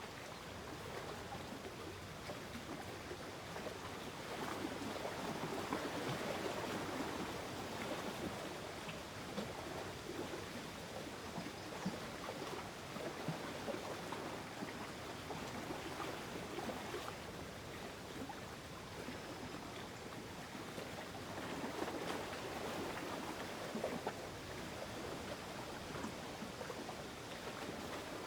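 Gentle lake-water ambience: a soft, steady wash of lapping water with many small splashes and drips, swelling a little twice.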